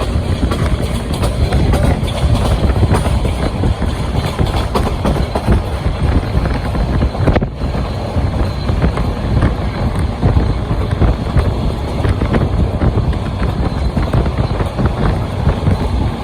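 Moving train running along the track: a loud, steady rumble with many short clicks and rattles throughout.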